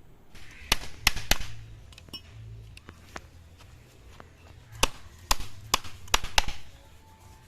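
Hammer driving nails into a wooden cage frame: three quick strikes about a second in, then a run of five more strikes later.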